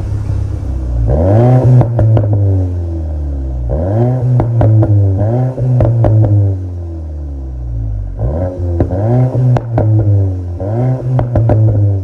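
Škoda Octavia RS's EA888 evo4 2.0-litre turbocharged four-cylinder through an MS-R valved cat-back exhaust, revved in a series of quick throttle blips, each rising and falling back. Crackles and pops come from the exhaust as the revs drop.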